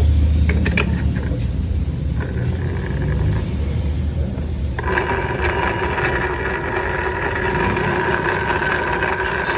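Scooter engine running with its CVT transmission making noise: a steady low rumble, joined about halfway through by a steady high-pitched whine that holds level to the end. The CVT noise is the fault being checked.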